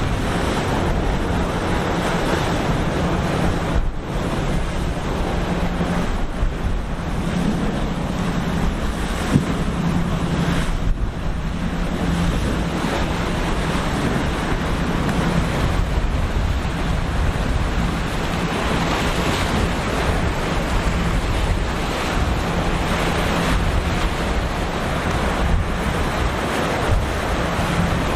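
Surf breaking and wind buffeting the microphone, under a steady low drone of a boat's engines running through the inlet.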